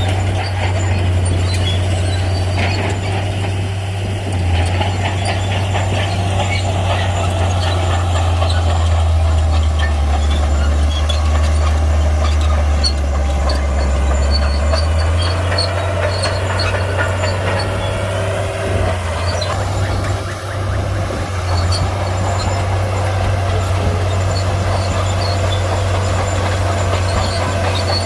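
Heavy crawler bulldozer working: its diesel engine runs steadily with the note dropping lower for about ten seconds early on, while the steel tracks give off intermittent high squeals.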